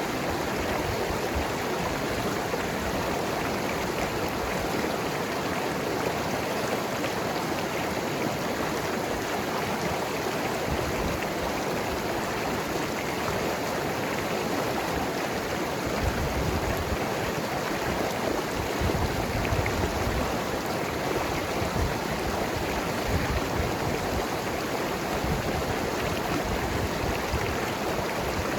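Mountain river flowing and tumbling over rocks: a steady rush of water with a gurgle.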